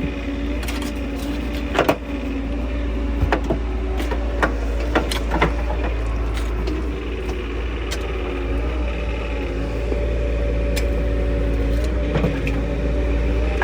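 An engine running steadily, with scattered sharp clinks and knocks from digging.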